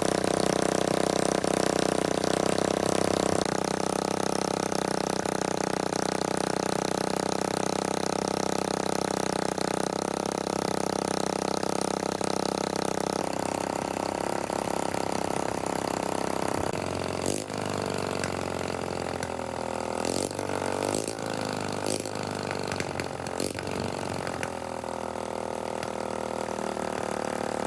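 Freshly rebuilt Honda 125cc motorcycle engine running at a steady idle, then revved in several short throttle blips in the second half, its pitch rising and falling with each one.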